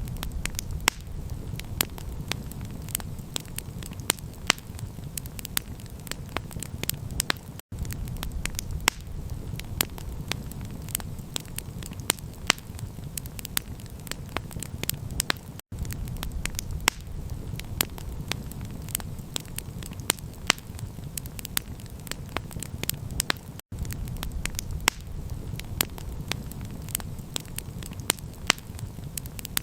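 Campfire crackling, with frequent sharp pops and snaps over a steady low rumble. The sound cuts out for an instant about every eight seconds, like a loop restarting.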